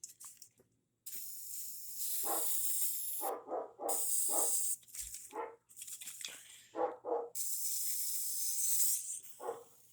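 Aerosol disinfectant spray hissing in several bursts, the first about two seconds long. A dog barks in short runs between and over the sprays.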